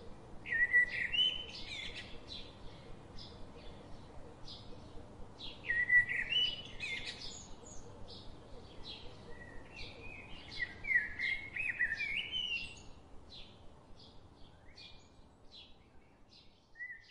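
Birds singing: a short high call repeats about twice a second, with louder warbling phrases three times. The song fades out near the end.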